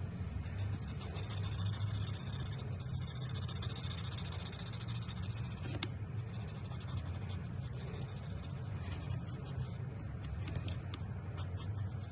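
Touch Twin alcohol marker tips rubbing and scratching across paper in many short strokes, over a steady low hum.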